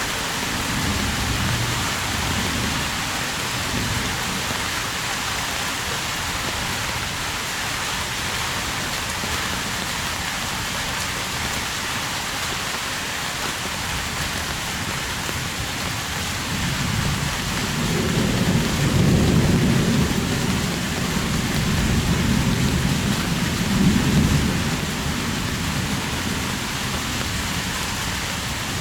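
Heavy rain falling in a steady hiss. A low rolling rumble of thunder builds a little past halfway and dies away after several seconds.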